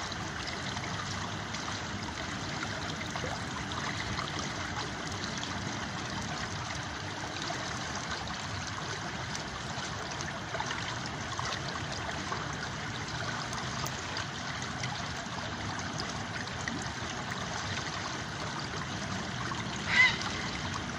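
A river flowing steadily, an even rush of water. About a second before the end, a brief, louder, sharp sound with a pitch in it stands out.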